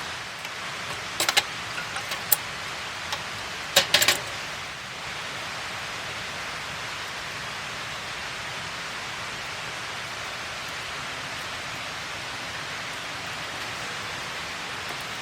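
Wood campfire crackling: a few sharp pops over a steady hiss, clustered about a second in and again around four seconds in.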